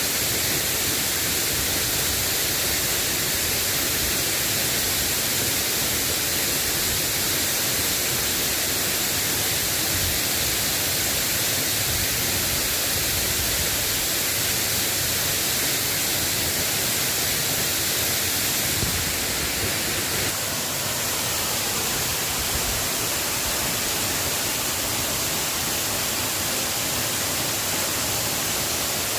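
Steady rain, an even hiss with no breaks; its tone shifts slightly about twenty seconds in.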